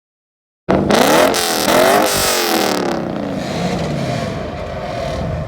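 Car engine revving hard twice in quick succession, then the revs falling away into a steadier engine note.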